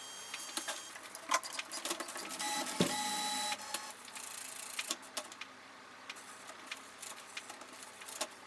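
Epson WorkForce WF-3620 inkjet printer's mechanism clicking and ticking, with its motor whirring steadily for about a second between two and three and a half seconds in, as it starts a test run after a print-head cleaning.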